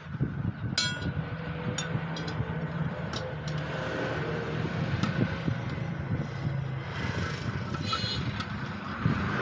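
A steady low engine-like hum with scattered sharp metallic clicks and knocks, the first about a second in and a few more over the next few seconds.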